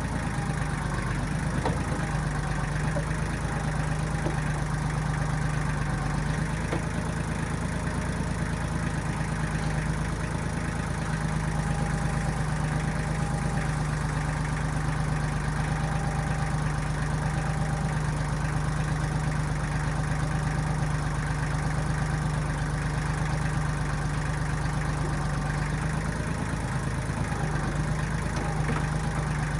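Diesel engine of a 1995 Kubota backhoe running at a steady speed, with only slight wavers in its note.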